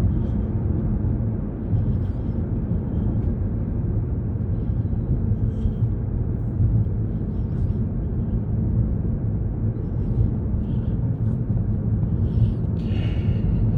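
Steady road and engine rumble of a car driving at highway speed, heard inside the cabin, with a brief higher-pitched sound near the end.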